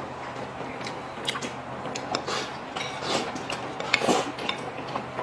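Tableware clinking: utensils tapping and scraping against bowls and plates during a meal, in scattered light clicks.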